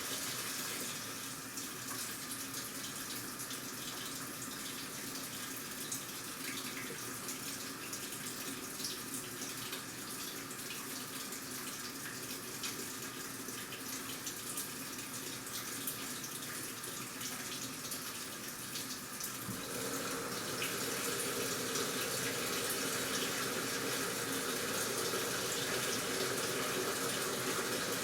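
Washing machine running with water flowing into the drum, a steady rush of water. It grows louder about twenty seconds in.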